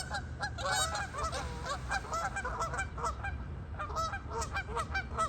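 A group of geese honking, many short calls overlapping almost without a break.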